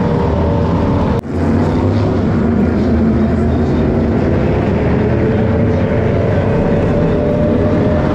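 Super GT race car engines running as a loud, steady low drone, with a short break about a second in.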